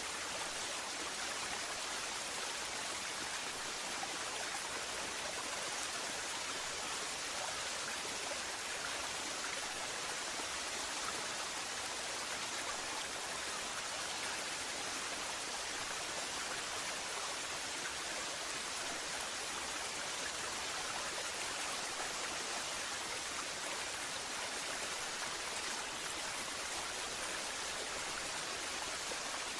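Waterfall: a steady, unbroken rush of falling water, with no birds or other sounds over it.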